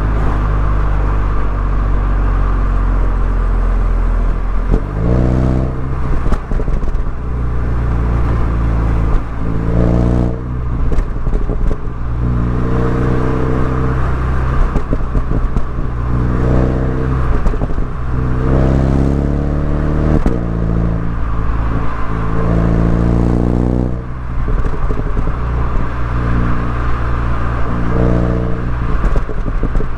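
Exhaust note of a MINI Cooper S being driven hard, its revs climbing and dropping again and again with the throttle, over steady road noise.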